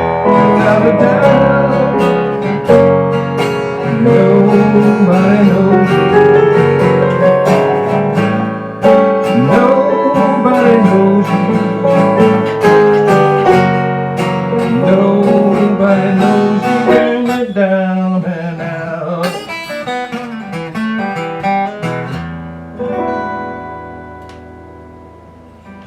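Blues band playing the instrumental ending of the song, led by guitar with notes bending in pitch. About 22 seconds in it settles on a final chord that rings and fades out.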